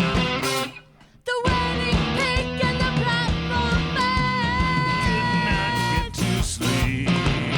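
Rock band playing live with electric guitar, bass and drums. The band stops dead for a moment about a second in, then crashes back in, and a long high note is held for a couple of seconds in the middle.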